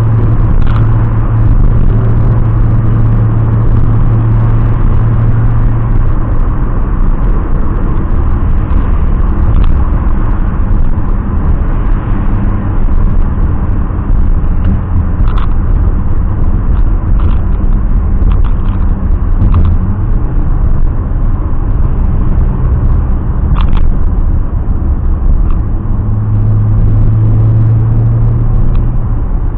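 Turbocharged BMW M20B27 straight-six in an E30 running as the car drives, with a steady low drone that is strong for the first six seconds, eases off, and returns near the end.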